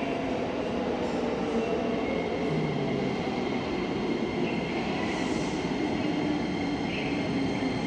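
Commuter train running along an underground station platform: a steady rail rumble with faint steady whines over it.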